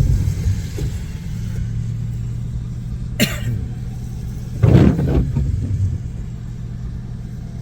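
Car driving on the road, heard from inside the cabin: steady low engine and road rumble with a hum, a sharp click about three seconds in and a louder thump just before five seconds.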